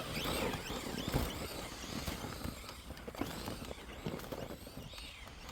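Electric RC truck's motor whining in short rising-and-falling revs as it is driven over snow and ice, growing fainter as it moves away.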